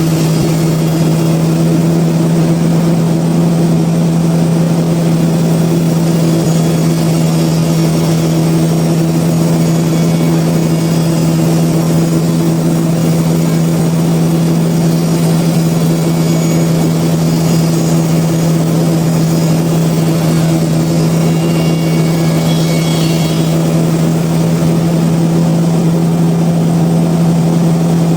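Sawmill machinery running with a loud, steady drone and a constant hum that does not change.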